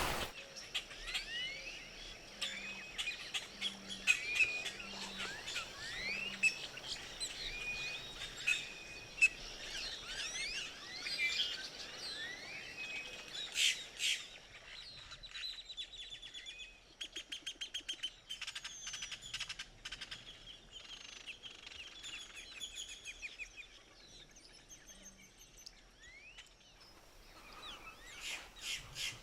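Small wild birds chirping and singing: many short rising and falling chirps, with rapid trills in the middle stretch.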